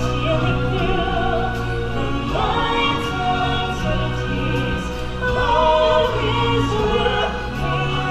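Stage-show music: a choir of singers holding long notes over an orchestral backing track.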